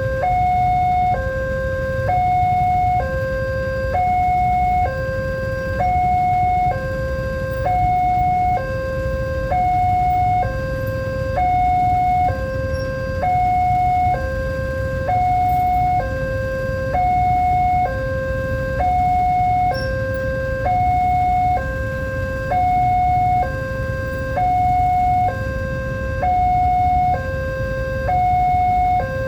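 Railway level-crossing warning alarm sounding: an electronic two-tone signal alternating evenly between a high and a lower tone, each held about a second, over a steady low rumble.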